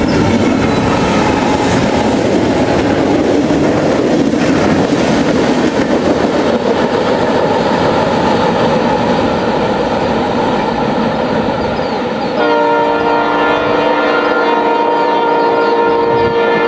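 Freight train rolling along the track with steady wheel and engine noise. About twelve seconds in, a diesel locomotive's multi-note air horn starts one long blast that holds to the end.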